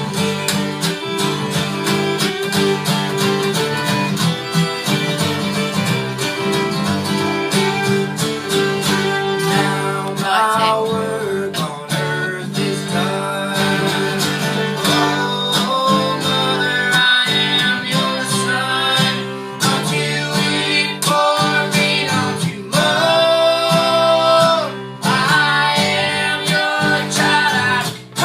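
Live acoustic folk band playing: strummed acoustic guitar over a steady bass line. A bending lead melody line joins from about ten seconds in.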